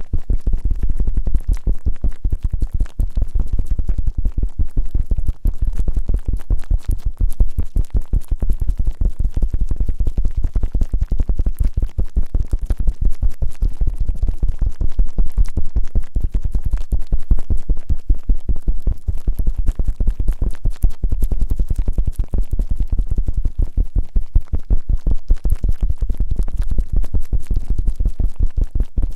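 Fast, even rubbing strokes directly on both ears of a binaural microphone, making a loud, low, grinding 'gorigori' sound at about ten strokes a second.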